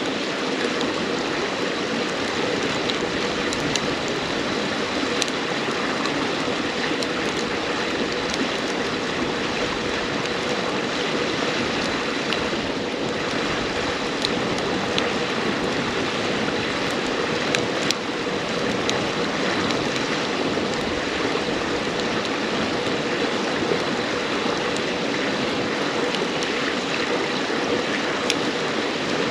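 A river babbling steadily, with sharp crackles and pops from a wood campfire scattered through it.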